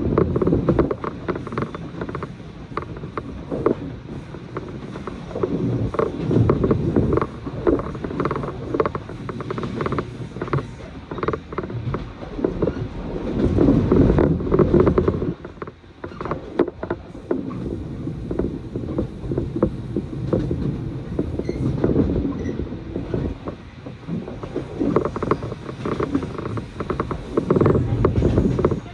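Inside a moving passenger train car: a low running rumble with constant creaks, clicks and rattles from the car body and fittings, swelling and easing with the track.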